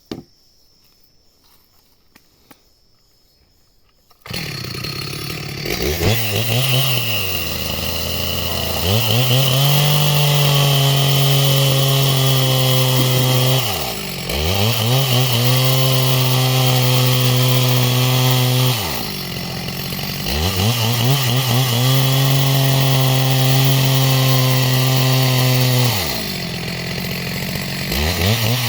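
Chainsaw starting up about four seconds in, then run at full throttle in long cuts through timber being sawn into rafters, with the engine dropping back briefly three times between cuts before revving up again.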